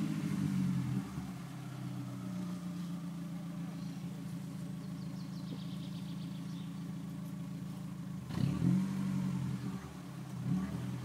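Car engine running steadily, revved up briefly about eight seconds in and again shortly before the end.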